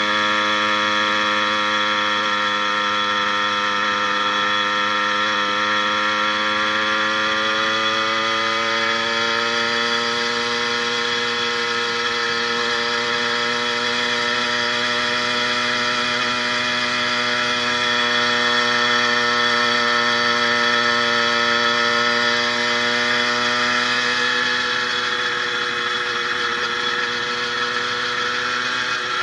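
80cc two-stroke motorized bicycle engine pulling under load up a hill, its revs climbing gradually for about the first ten seconds and then holding steady. It runs evenly, fitted with a new piston and needle-bearing wrist pin, and the rider says the motor sounds really, really well.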